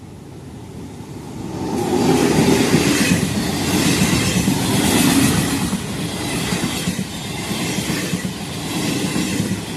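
A regional passenger train hauled by an E.464 electric locomotive with MDVC and MDVE coaches passing close by on the rails, building up about a second and a half in and staying loud.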